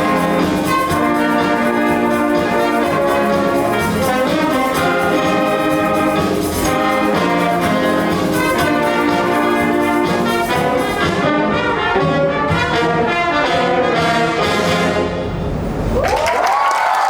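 A high school band plays brass-heavy ensemble music, with trumpets and trombones prominent. Near the end the notes slide upward into a held final chord.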